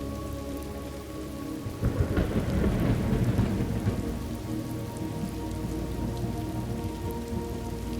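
Steady rain falling, with a roll of thunder that comes in suddenly about two seconds in and rumbles on for a couple of seconds before easing back under the rain.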